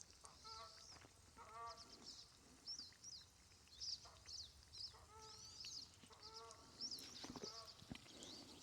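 Faint wild birds calling: a songbird's quick high chirps repeat throughout, while a larger bird gives a few short honking calls, each a rapid run of notes. A couple of faint knocks come near the end.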